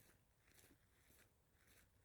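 Faint footsteps of a person walking at a steady pace, about two steps a second.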